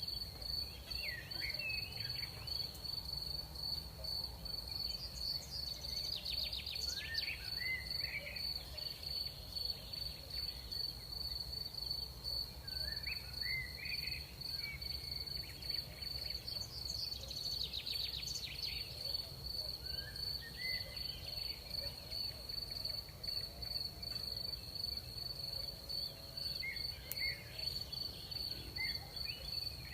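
Night crickets trilling steadily at one high pitch, with short gliding chirps every few seconds and a low rumble of night air underneath.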